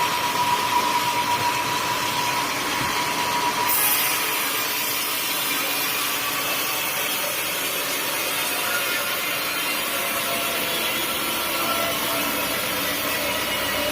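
Sawmill blade cutting through an old teak stump, a steady machine noise. A thin steady whine in the first few seconds stops about four seconds in, and the sound changes at that point.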